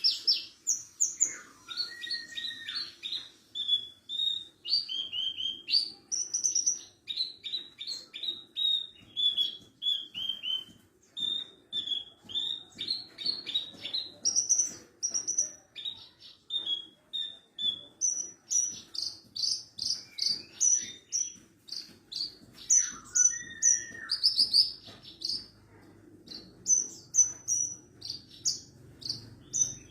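Javan bush lark of the parva race (branjangan parva) singing a long, unbroken, varied song of rapid high chirps, trills and short whistles, with a lower slurred whistle twice among them.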